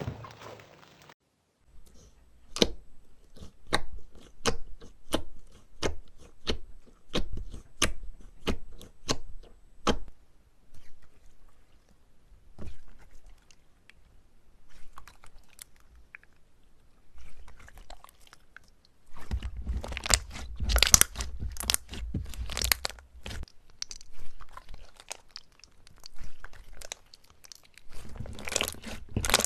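Slime being handled by hand: a run of sharp pops about two a second, then, after a quieter stretch, dense crunchy crackling that starts about two-thirds of the way through and returns near the end.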